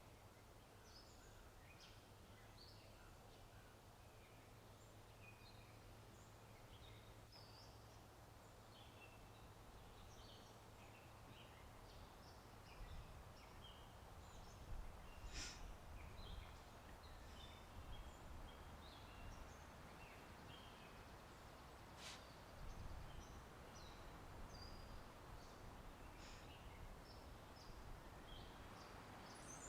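Faint birdsong: many short chirps from several birds over a low, steady background rumble, with two sharp clicks in the middle.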